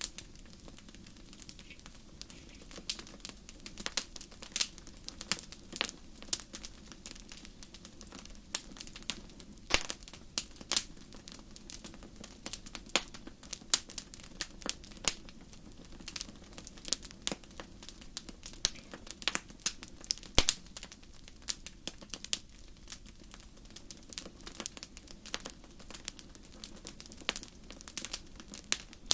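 Campfire crackling: burning wood giving irregular sharp pops and snaps, several a second, over a low steady background.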